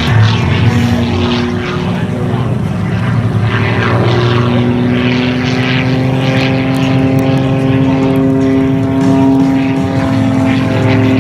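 Extra 300 aerobatic plane's Lycoming IO-540 six-cylinder engine and propeller droning steadily in flight, with an even, constant pitch.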